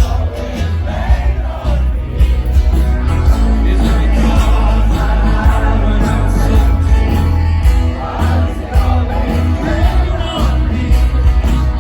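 Live rock band playing at full volume with heavy bass, with singing voices over the music.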